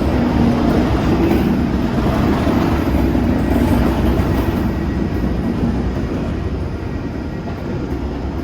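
Train noise at a station platform: a steady, loud rumble with a low drone, easing a little over the last couple of seconds.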